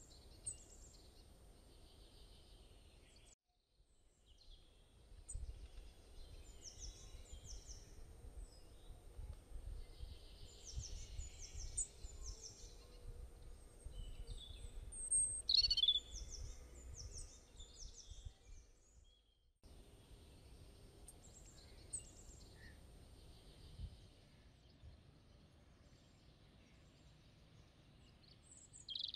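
Birds chirping again and again over faint background noise with a low rumble. The sound drops out briefly twice.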